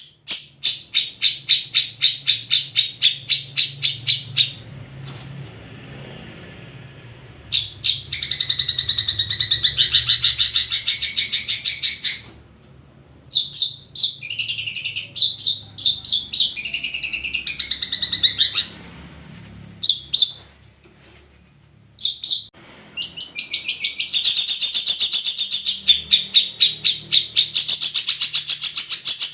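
Long-tailed shrike (cendet) singing loudly. Runs of rapid, harsh repeated notes at about five a second alternate with warbled, varied phrases, with a few short breaks in between.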